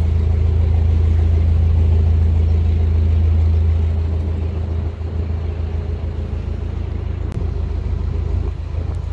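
Narrowboat's diesel engine running under way, a steady low hum that eases and gets quieter about four seconds in.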